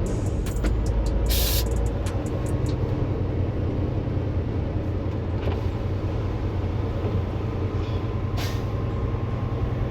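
Semi-truck's diesel engine running steadily. A short burst of air hiss comes about a second in and a briefer one near the end, typical of the truck's air brakes releasing air.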